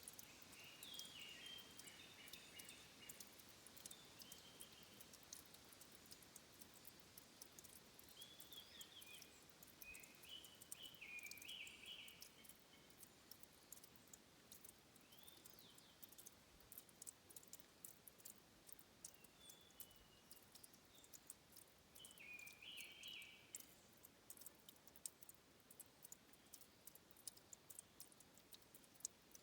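Faint trickle and drip of water at a stream's source: a steady patter of small, sharp ticks. A bird sings short phrases several times over it, loudest from about 8 to 12 seconds in and again about 22 seconds in.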